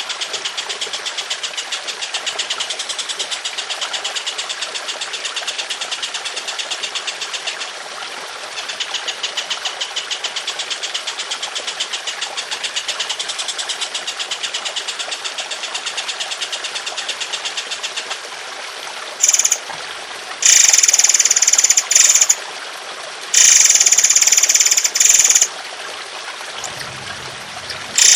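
A songbird's rapid, rough rattling song: a fast, even stutter of notes repeated several times a second, with a short break about eight seconds in. From about 19 seconds it changes to several loud, harsh bursts of song. Trickling water runs steadily underneath.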